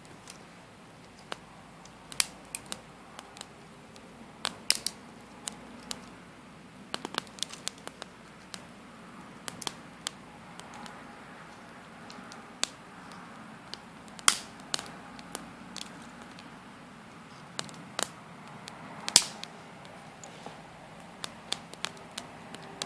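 Wood campfire crackling: irregular sharp pops and snaps over a low steady hiss, with two louder pops in the second half.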